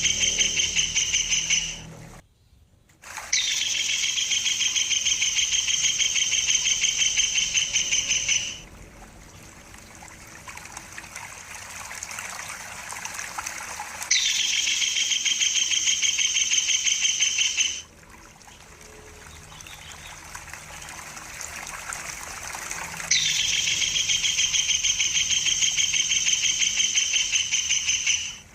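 Tengkek buto bird giving a fast, even trilling call at a steady pitch, in four bouts of a few seconds each. Between the bouts a stream trickles.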